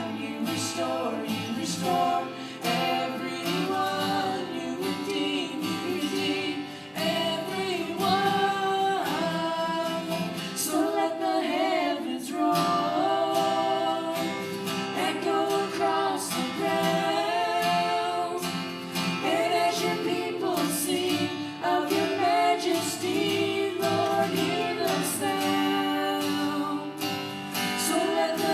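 Two children singing a worship song with acoustic guitar accompaniment.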